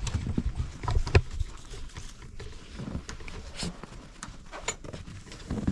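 Irregular footsteps with scattered light knocks and clicks, the loudest about a second in.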